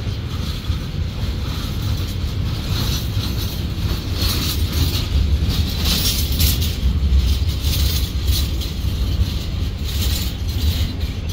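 Freight train's container flatcars rolling past at close range: a steady low rumble of steel wheels on rail with repeated clicks and rattles.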